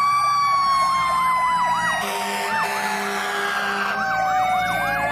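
Electronic fire-truck siren from a toy fire truck: a slowly gliding wail with a fast yelp sweeping up and down about three times a second over it. A hiss and a low hum join in for a couple of seconds mid-way.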